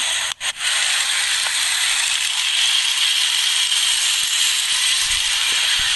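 Motorised toy train running on its track: a steady, high rattling whir of its small motor and gears, broken by a brief dropout just after the start.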